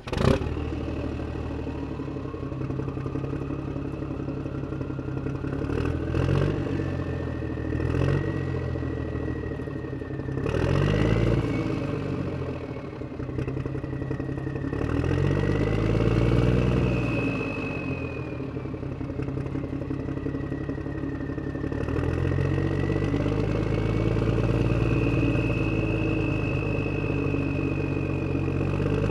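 Small electric motor of a miniature DIY tractor running with a whine that rises and falls in pitch every few seconds as its speed changes.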